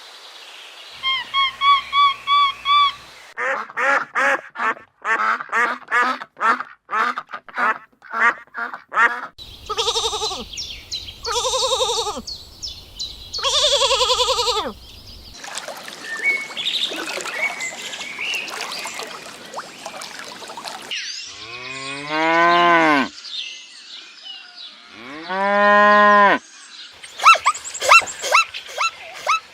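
Farm animals calling in a run of short clips: a quick series of short pulsed calls, then three long calls, and near the end two long arching calls that rise and fall in pitch.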